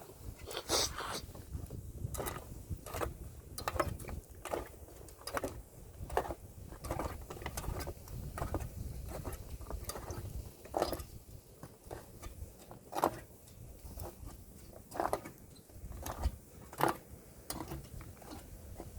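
A hiker's footsteps on a mountain trail, a steady walking rhythm of about one to two steps a second, over a low rumble of wind on the microphone.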